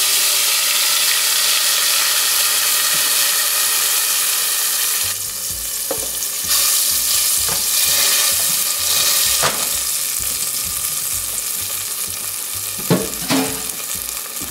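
Wet spice masala (onion, ginger, garlic and ground spices blended with water) sizzling loudly as it hits hot olive oil in a pressure cooker. The sizzle eases a little about five seconds in, and a few knocks come through as it is stirred.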